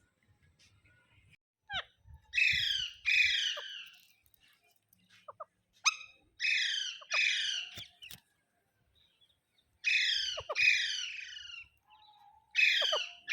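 Parrot screeching loud, harsh calls in pairs: four double screeches a few seconds apart, each call falling quickly in pitch.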